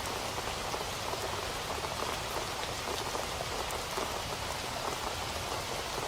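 Steady rain falling and pattering on a surface, a dense even patter of drops with no thunder.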